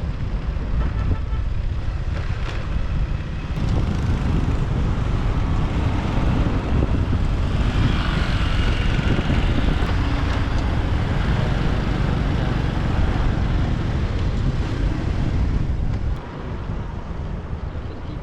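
Wind buffeting the microphone over road and traffic noise while riding a motorbike through city traffic. The noise is steady and dense, easing somewhat about sixteen seconds in.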